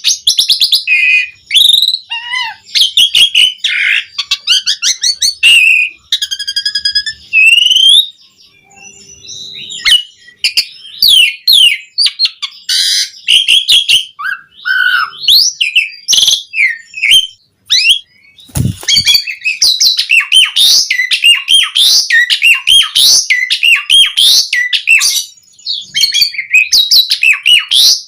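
Asian pied starling singing loudly and without letup: a rapid, varied stream of whistles, chatter and trills, with short lulls about a third of the way in and just past halfway. A single low thump comes just past halfway.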